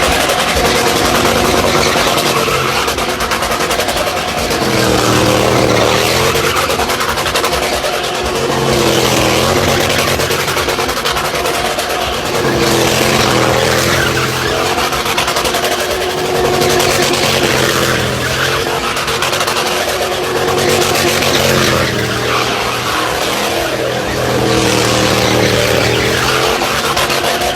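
Car engine revving hard, its pitch rising and falling again and again every few seconds, with tyres squealing and skidding as the car drifts.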